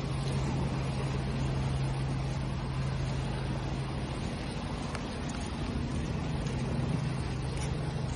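Steady wash of ocean waves with a constant low hum underneath.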